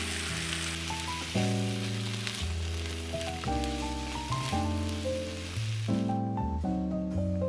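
Sliced potatoes and onion sizzling in oil in a frying pan, a steady crackling hiss that stops suddenly about six seconds in. Background music with piano-like notes plays throughout.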